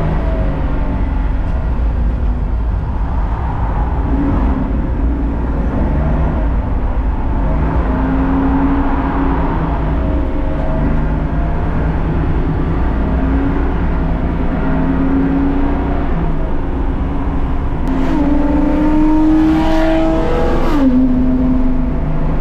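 Race car engine under load, its revs climbing and dropping again and again through gear changes and corners; near the end it revs up hard for a few seconds, then drops sharply on an upshift.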